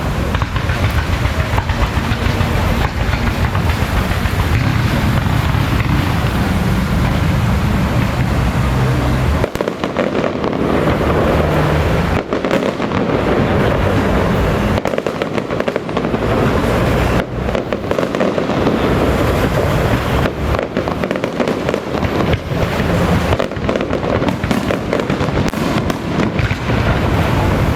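Fireworks crackling densely and without a break, a rapid stream of sharp pops. A low steady hum runs underneath for about the first ten seconds.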